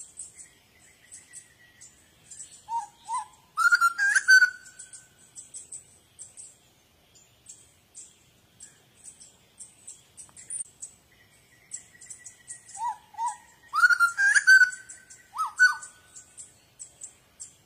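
Birds singing: a steady run of short, high chirps, with a louder whistled phrase of rising and falling notes about four seconds in and again about fourteen seconds in.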